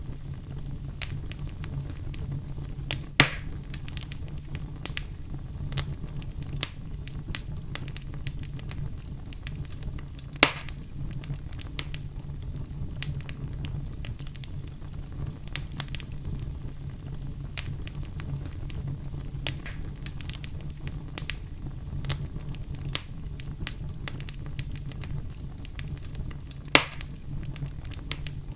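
Wood fire burning in a fireplace: a steady low rumble of flame under constant small crackles, with three louder sharp pops, about three seconds in, ten seconds in and near the end.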